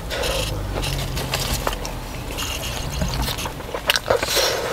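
Chewing and mouth noises from eating a fried chicken burger, with a few short rustles, over a steady low rumble inside a car.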